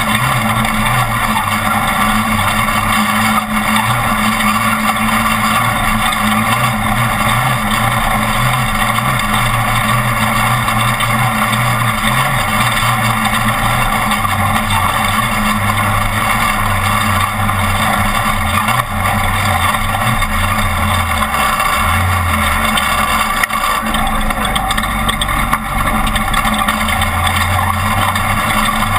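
Class 1450 off-road race truck's engine running hard at race pace, its note rising and falling with throttle and gear changes, under a loud, steady rush of road and wind noise.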